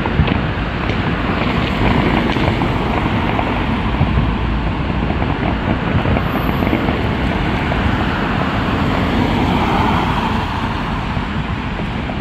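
Many distant fireworks popping and crackling over a steady rumble of wind on the microphone.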